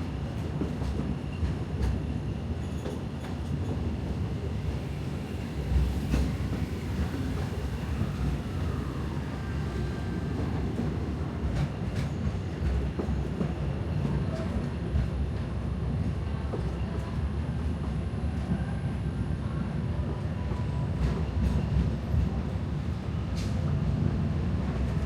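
Narrow-gauge steam train of the Walt Disney World Railroad running, heard from aboard a passenger car: a steady low rumble of wheels on track with an occasional sharp click or knock.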